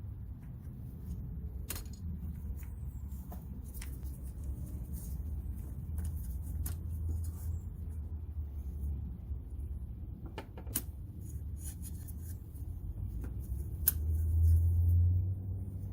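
Scattered light clicks and clinks of hand tools and parts being handled while working on a car, over a steady low rumble that swells briefly near the end.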